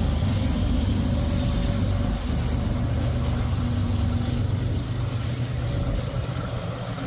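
Diesel freight locomotives passing close with a steady, deep engine rumble and the hiss of rolling freight cars.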